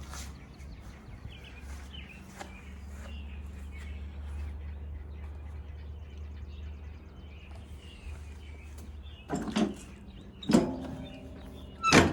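Steady low hum with faint scattered ticks, then three loud knocks near the end, each ringing briefly.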